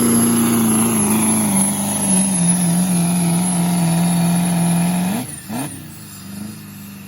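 Diesel pickup truck engine on a 2.6-inch smoothbore turbo running hard under load in a sled pull, its pitch slowly sagging, with a steady high whistle above it. About five seconds in the throttle comes off and the engine and whistle drop away sharply to a much quieter run.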